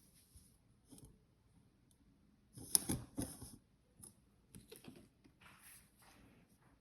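Small handling noises: scattered light clicks and rustles, with a louder rustling scrape lasting about a second around three seconds in.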